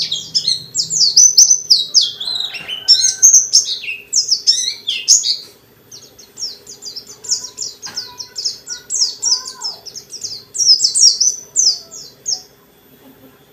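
Pleci (white-eye) singing a fast, continuous warbling song of high, quickly falling notes. It lulls briefly about halfway and stops shortly before the end. A faint steady low hum runs underneath.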